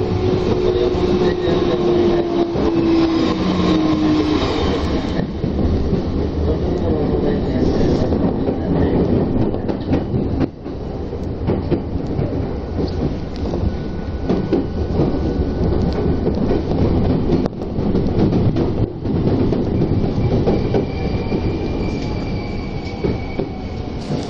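Tokyo Metro Tozai Line train heard from inside a car: steady rail rumble with wheels clattering over the joints. A motor whine falls in pitch over the first few seconds as the train slows, and a passing Narita Express adds a rush that stops about five seconds in. Thin high whines come in later as the train brakes into a station.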